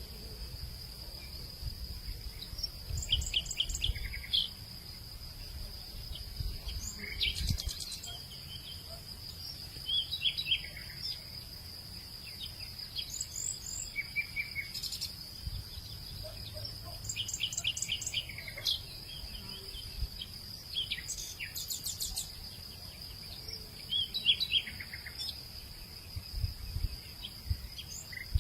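Outdoor evening ambience: a steady high-pitched insect drone with birds chirping and trilling in short, scattered phrases, and occasional low rumbles.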